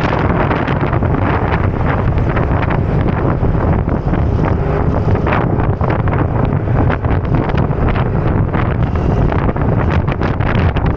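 Loud, steady wind noise buffeting the microphone of a moving scooter, with vehicle noise beneath it.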